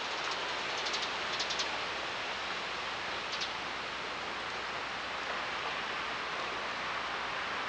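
Steady hiss of light rain falling on a wet street, with a few brief high ticks about a second in and again around three seconds in.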